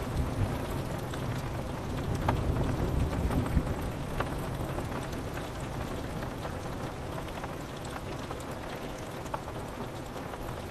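Steady rain pattering on window glass, with single drops ticking sharply now and then. A low thunder rumble dies away over the first few seconds.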